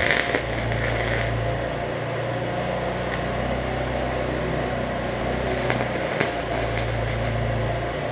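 Stick welding with 7018 rod: a steady electrical hum from the welder under the arc's crackle, with a few sharp pops.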